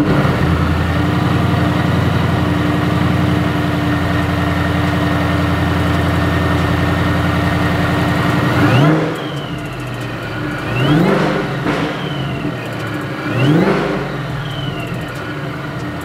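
Whipple-supercharged 5.0 V8 of a 2017 Ford Mustang GT running at a high idle just after starting, then dropping to a lower idle about eight seconds in. Three throttle blips follow, each rising and falling in pitch with a high whine that tracks the revs.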